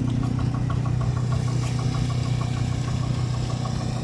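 An engine running steadily at idle, with a regular ticking about six times a second over its low hum.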